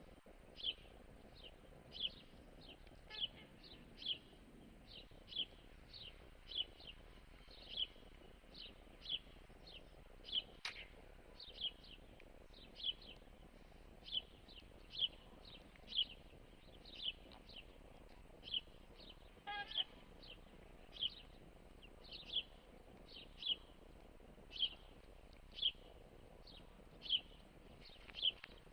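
A bird chirping, one short high chirp about every second.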